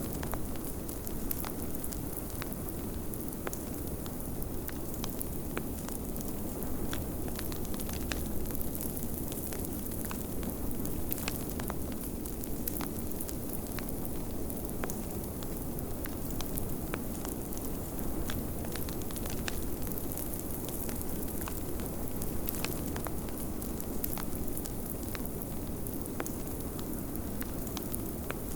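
Wood fire crackling with many scattered sharp pops over a steady low rush of blizzard wind.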